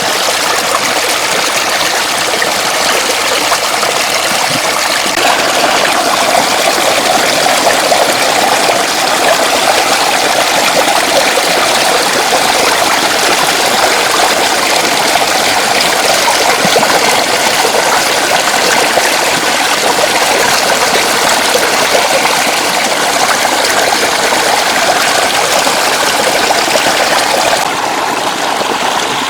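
Steady rushing and splashing of floodwater flowing over a road.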